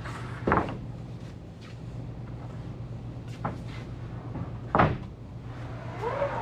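Lumber boards being handled and set down: two sharp wooden knocks about four seconds apart, with a fainter knock between, over a steady low hum.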